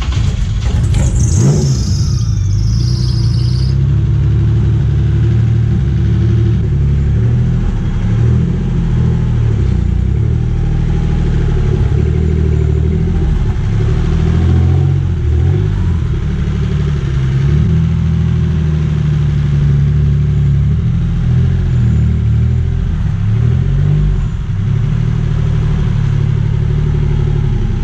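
Twin-turbocharged engine of a custom Honda S2000, just started and idling loudly. The idle is a little uneven, its pitch wandering slightly up and down. A brief high whine fades out in the first couple of seconds.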